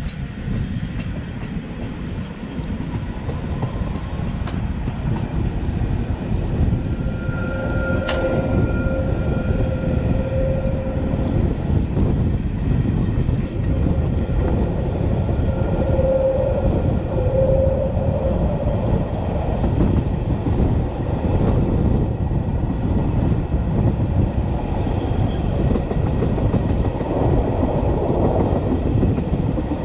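Narrow-gauge Matterhorn Gotthard Bahn train running along the track: a steady rumble of wheels on rail with faint clicking. A pitched tone comes and goes twice, and there is one sharp click about eight seconds in.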